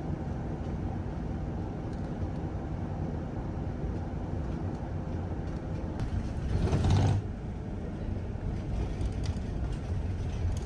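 Steady low rumble of a road vehicle in motion, with a brief louder whoosh about two-thirds of the way through.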